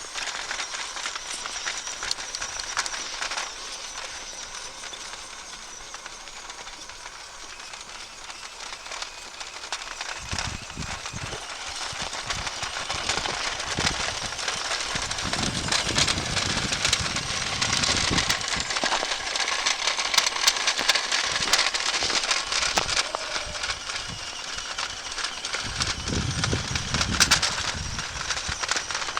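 Radio-controlled model truck driving on snow: a steady mechanical clatter and crackle that gets louder about ten seconds in, with low rumbles at times.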